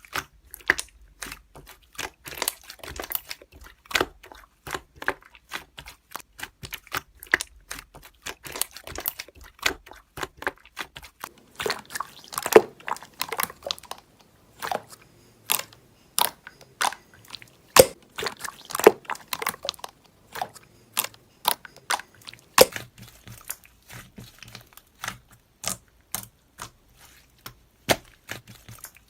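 Slime being played with, making dense runs of irregular sharp clicks and pops.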